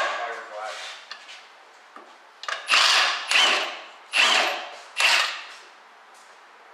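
A hand-held power tool run in four short bursts, each about half a second and tapering off, following one another quickly near the middle.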